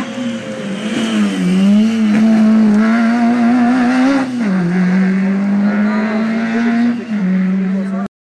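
Rally car engine running hard at high revs, its note dipping about a second and a half in, climbing, then falling sharply twice as the car changes gear and slows for a corner. The sound cuts off suddenly near the end.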